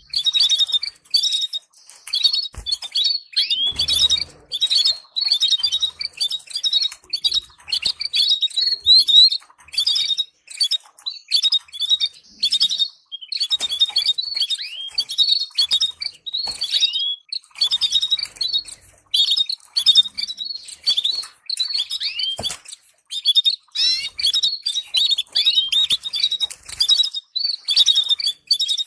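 Canary singing: rapid chirps, trills and quick rising and falling whistled notes in long phrases broken by short pauses.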